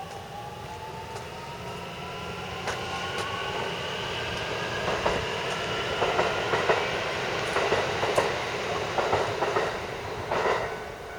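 Kintetsu electric train accelerating past, its motor whine climbing steadily in pitch, with wheels clacking over rail joints. It is loudest in the second half and drops off sharply near the end.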